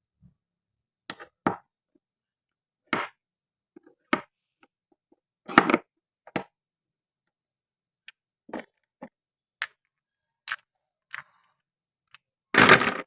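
Toy food pieces clicking and knocking as they are handled and cut: about a dozen separate, irregular taps, then a longer, louder clatter near the end.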